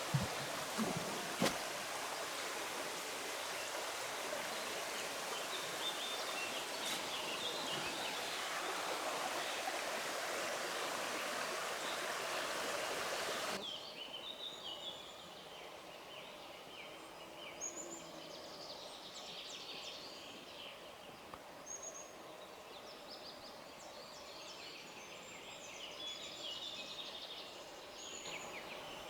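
Steady outdoor rushing noise, which may be flowing water, stops abruptly about halfway through. It is followed by quieter ambience with small birds chirping repeatedly.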